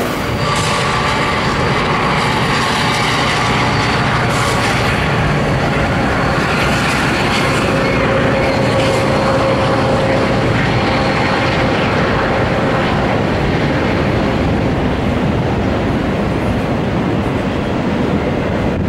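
Train of several EMD diesel locomotives passing, their engines running over the steady rumble of steel wheels on the rails.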